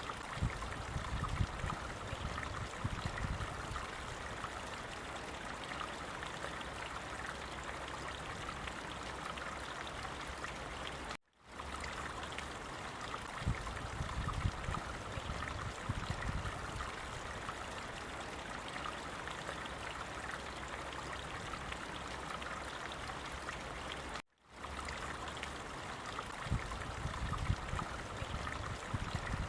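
A stream of running water flowing steadily, with deeper gurgles for the first few seconds of each repeat of a short looped recording. The sound drops out briefly twice, about 11 and 24 seconds in, where the loop restarts.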